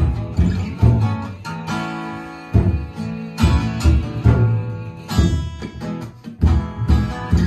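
Background music: acoustic guitar strummed and picked, with ringing chords struck every half second or so.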